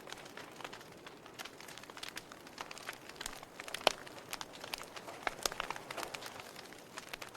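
Wood fire crackling in a fireplace: irregular sharp pops and snaps over a soft hiss, with one louder pop a little before four seconds in.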